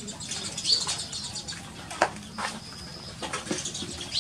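Birds chirping in the background with short, repeated high calls, and a single sharp knock about two seconds in, followed by a few lighter clicks.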